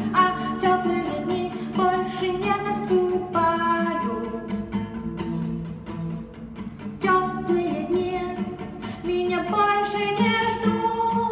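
A song sung to guitar accompaniment: a voice holding long notes over plucked strings.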